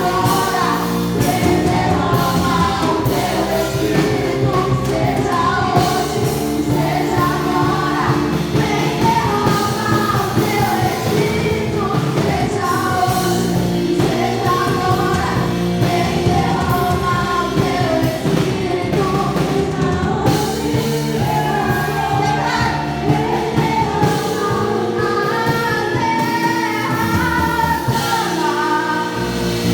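Live worship music with singing over a full band: Portuguese-language gospel praise.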